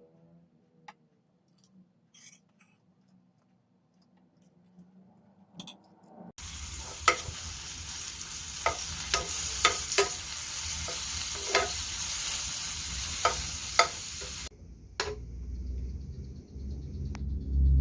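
Food frying in hot oil: a loud, steady sizzle with sharp pops and crackles, starting suddenly about six seconds in and cutting off abruptly a little before the end. Before it there are only a few faint clicks.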